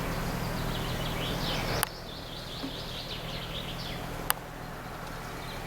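Small birds twittering in quick, high chirps over a steady background noise. The background noise drops abruptly about two seconds in with a click, and there is another sharp click a little after four seconds.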